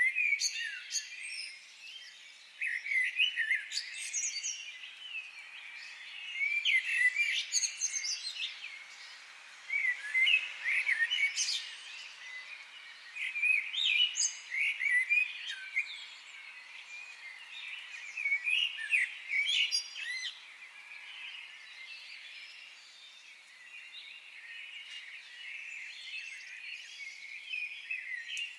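Forest birds singing: short bursts of chirping and whistled phrases every few seconds over a steady high background chorus.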